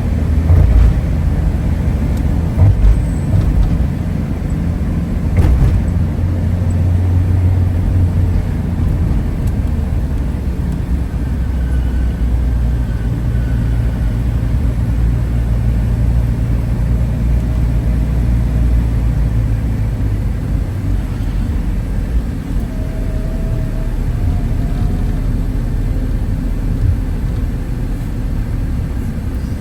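Loud, steady low engine rumble of a vehicle, its deep hum shifting in pitch a few times.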